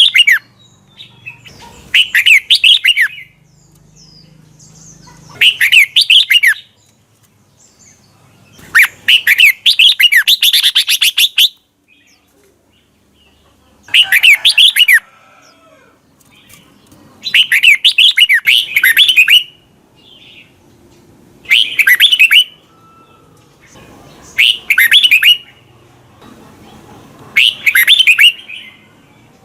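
Red-whiskered bulbul singing: short, loud phrases of quick warbled notes repeated about every three seconds, one phrase near the middle running longer than the rest.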